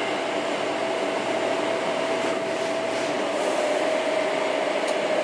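Running noise inside a Hankyu Kyo-train carriage under way: a steady rumble of wheels on track with a whine held at one pitch that sinks slightly toward the end.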